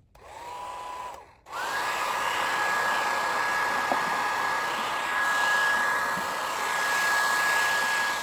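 Handheld hot-air blower switched on briefly, then again about a second and a half in and running steadily: an even fan rush with a thin high whine. It is heating a glued, cracked wooden table-leg joint to soften the old glue.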